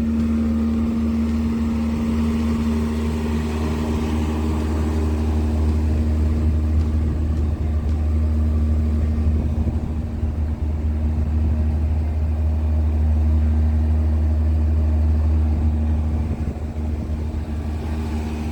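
Ford 2.3-litre four-cylinder engine of a car running steadily, with a deep low hum and a steady tone above it.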